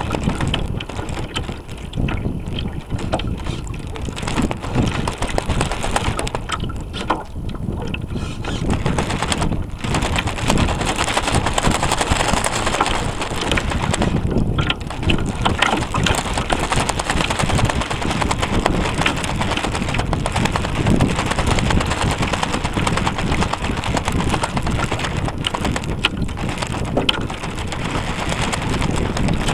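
Wind buffeting the microphone of a camera mounted on a radio-controlled sailboat, with water rushing along the hull. The noise is steady and rough, rising and falling in gusts.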